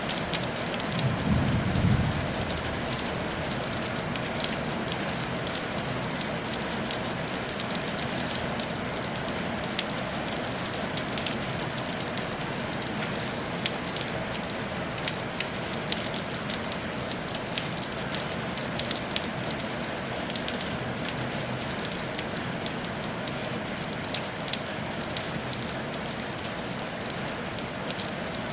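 Steady rain falling on a tile roof, an even hiss dense with the ticks of individual drops. A brief low rumble comes about a second in.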